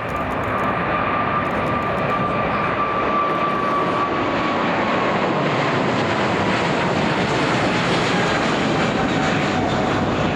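Boeing 777-300ER's GE90 turbofan engines at takeoff power: loud, steady jet noise with a high whine that slowly falls in pitch as the airliner goes past.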